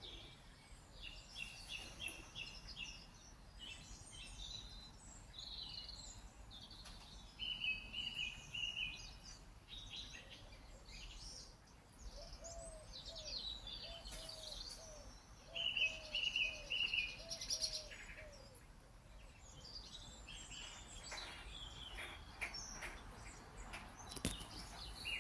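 Small birds chirping and singing, with short rapid trills repeated several times and a fainter, lower repeated call near the middle.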